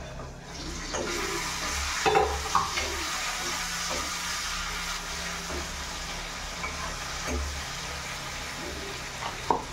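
Pork sizzling and frying in a wok on a gas stove while it is stirred with a spoon, the sizzle setting in about a second in, with a few short knocks of the spoon against the pan.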